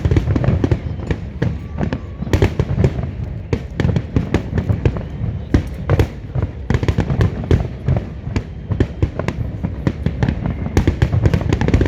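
Fireworks going off in rapid, irregular succession: many sharp bangs and crackles close together over a continuous low rumble of explosions.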